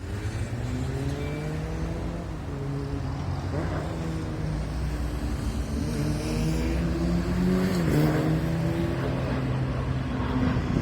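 Heavy truck's diesel engine pulling under load, its note slowly rising and then dropping sharply near the end, as at a gear change.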